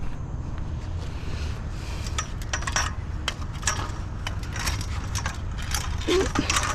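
Light metal clinks and clicks of scrap being handled, a rapid irregular series of short sharp knocks, over a steady low rumble, with a brief squeak about six seconds in.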